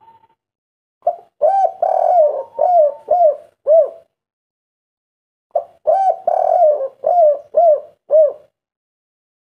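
Spotted dove (derkuku) cooing in the local 'kuk 3' style: two full song phrases, each a short note and a longer coo followed by a run of short falling 'kuk' notes, with a pause of about a second and a half between them.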